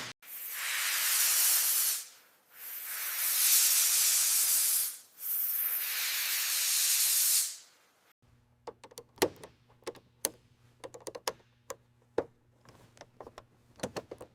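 Three long bursts of loud hissing from a pressurised jet, each about two to three seconds with short gaps. After them come scattered light clicks and taps over a faint steady hum.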